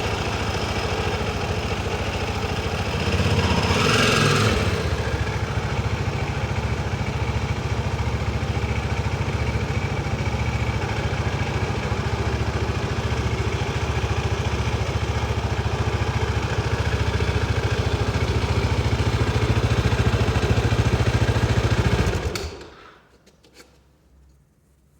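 KTM motorcycle engine running at a steady idle, with a brief louder, brighter burst about four seconds in. The engine shuts off a few seconds before the end, leaving a few faint clicks.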